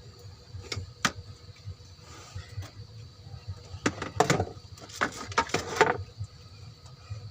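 Hand tools and metal parts clinking during engine work: two single sharp clicks near the start, then two quick clusters of clattering clicks, one about four seconds in and one around five to six seconds, over a low steady hum.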